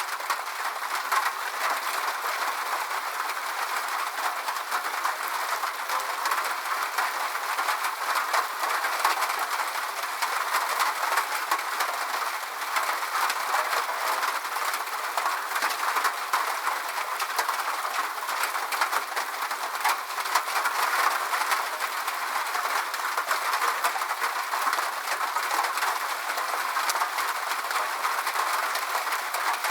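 Steady rain falling: an even hiss dense with fine drop ticks, with nothing underneath it.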